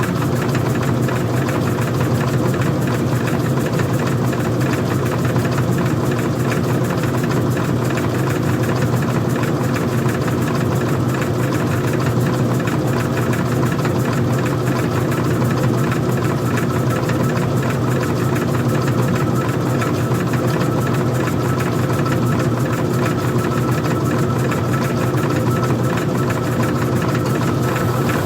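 Older front-loading washing machine running with its workings exposed: a steady, loud motor hum with a fine rattling texture.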